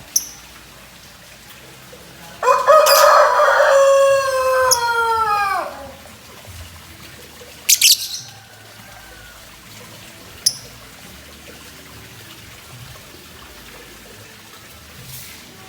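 A rooster crows once, a long call of about three seconds that falls in pitch at the end, starting about two and a half seconds in. Short, shrill chirps of a lovebird sound around it, the loudest a quick double chirp about eight seconds in.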